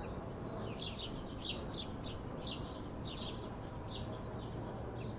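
Small birds chirping, short falling chirps a few times a second, over a steady low background hiss.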